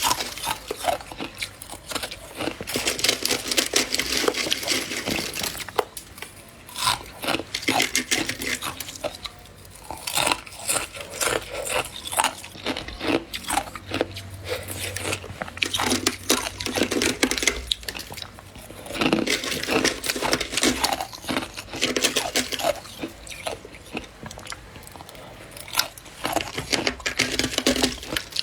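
Soft humidifier-grown freezer frost being scraped by hand and crunched between the teeth, a crisp crackling that comes in irregular bursts with short pauses.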